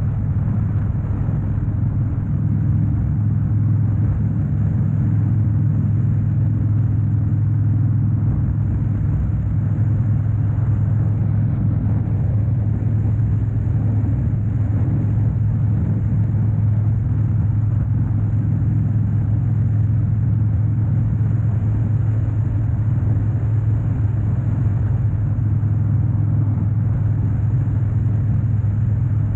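Harley-Davidson Dyna Wide Glide's 103-cubic-inch Twin Cam V-twin running steadily under way, a constant low exhaust rumble with no change in revs.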